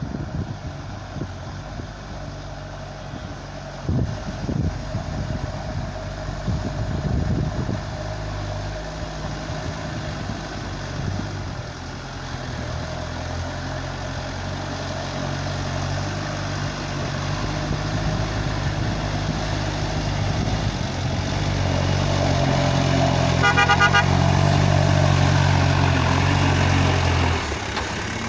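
Heavy truck's diesel engine labouring under an overload of boulders, its note growing steadily louder, with a brief horn toot about two-thirds through. The engine sound drops away abruptly just before the end.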